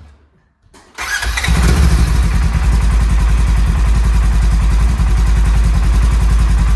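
Polaris General side-by-side's engine starting about a second in and settling into a steady idle.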